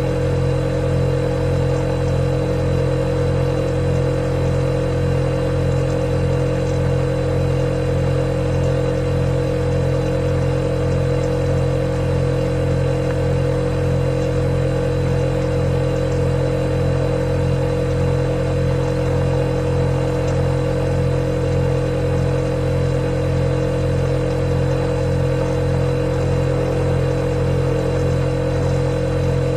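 Refrigerator running with a steady, unchanging hum: a low drone with a clear higher tone over it.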